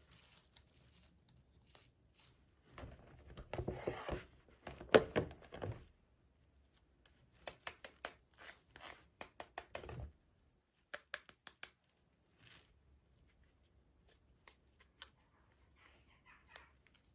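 Close handling of small toy packaging: a crinkly rustle and scrape a few seconds in, then quick runs of sharp clicks and snips, with a low thump about ten seconds in.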